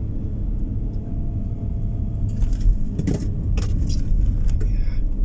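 Car driving on the road, heard from inside the cabin: a steady low rumble of tyre and engine noise, with a run of short clicks and rattles in the second half.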